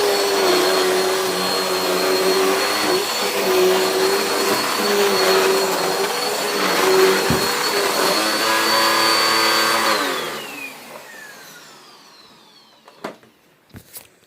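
Dirt Devil Power Express upright vacuum cleaner running steadily with a high motor whine, then switched off about ten seconds in, its whine falling in pitch as the motor spins down. A few sharp clicks follow near the end.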